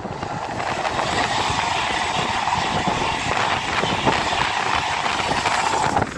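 An LNER electric express passenger train passing at speed: a steady rush and rumble of wheels on rail with a hum near 1 kHz, falling away sharply near the end as the last coach goes by.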